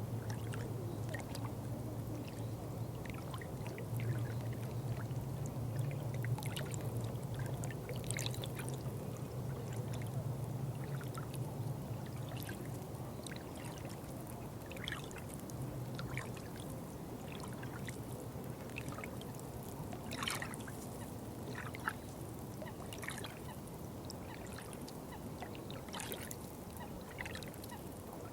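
Water running and trickling steadily, with many small splashes and drips breaking through. A low rumble sits underneath and fades out about halfway through.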